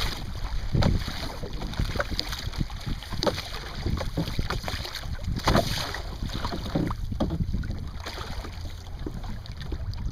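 Wind buffeting the microphone on a small sailing boat under way, with irregular splashes and slaps of water.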